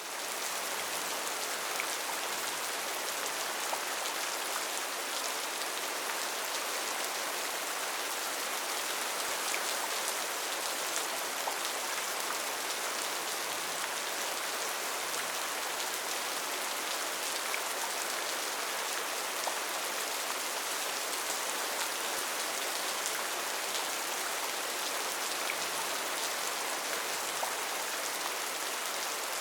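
Steady, heavy rain falling on rainforest foliage, an even hiss dotted with small drop ticks.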